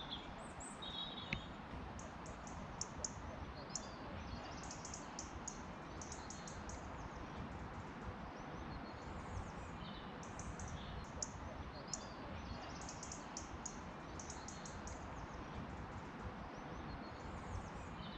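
Small songbirds chirping and singing, short runs of quick high notes coming again and again, over a steady outdoor background hiss.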